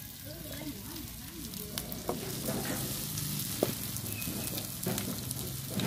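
Batter with small field shrimp frying in hot oil in a frying pan. It gives a steady sizzle with a few sharp pops.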